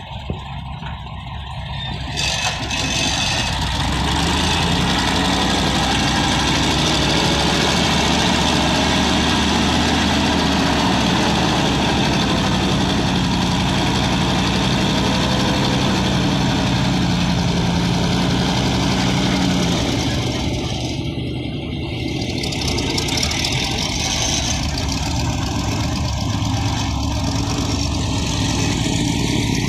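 Heavy diesel engine running steadily, building up over the first few seconds, with a brief dip about 21 seconds in.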